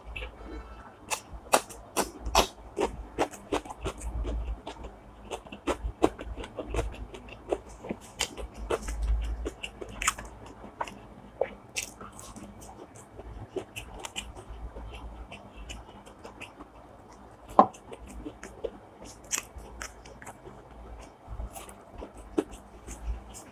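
Close-up chewing and crunching of food, with irregular sharp crackles and a louder crunch about 17 seconds in.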